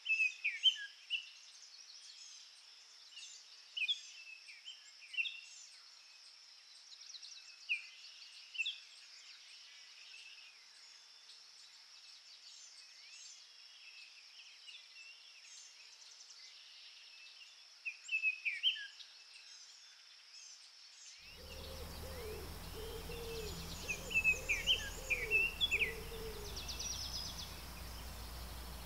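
Songbirds chirping and trilling in a dawn chorus, with a faint steady high hiss behind them. About two-thirds of the way through, the background abruptly becomes louder, with a low steady hum under the birdsong.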